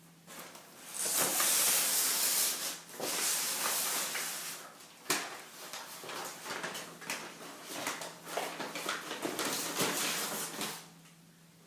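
A cat moving around inside a bag, the bag rustling and crackling in uneven bursts with small clicks. The rustle is loudest a second or two in, then goes on more patchily until it dies away near the end. A faint steady hum sits underneath.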